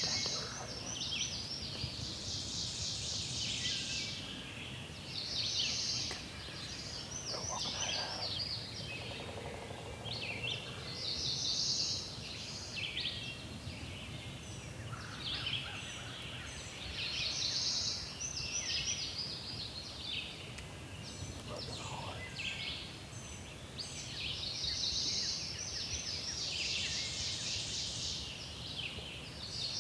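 Wild turkeys gobbling over and over. Songbirds sing short high-pitched phrases every few seconds over a steady background hush.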